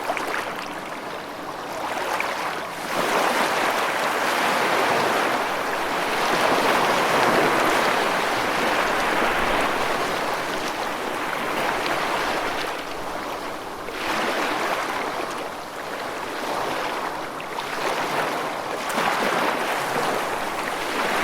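Ocean surf: waves breaking and washing in, a steady rush of water that swells and eases every few seconds, with a long crest near the middle and shorter swells towards the end.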